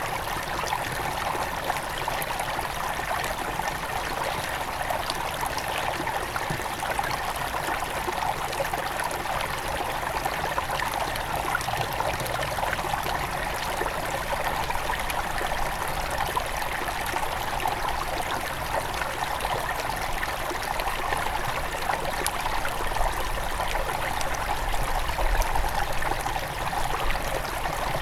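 Small river at its headwaters running over stones, a steady babbling and trickling flow.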